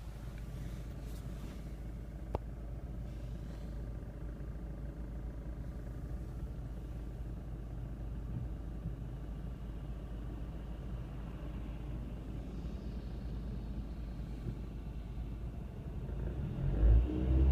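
Steady low rumble of a moving Ford Mondeo Mk3, heard from inside the cabin, with one sharp click about two seconds in. Near the end come heavy low thumps as the rumble swells.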